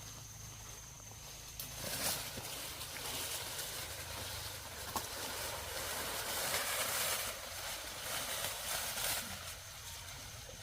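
Rustling and crackling of dry corn plants, which swells about two seconds in and eases near the end, with a few sharp clicks.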